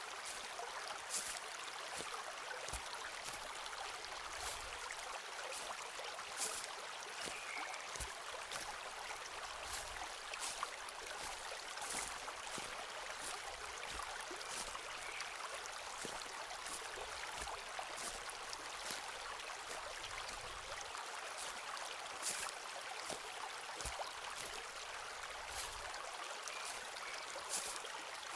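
Steady rush of a stream running through the forest, with irregular crunching footsteps on the forest floor, roughly one a second.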